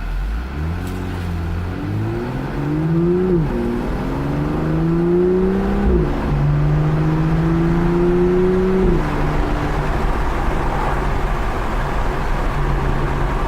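2018 BMW M2's 3.0-litre turbocharged inline-six accelerating through the gears. The engine pitch climbs and drops sharply at three upshifts, about 3, 6 and 9 seconds in, then holds steady at a cruise over road noise.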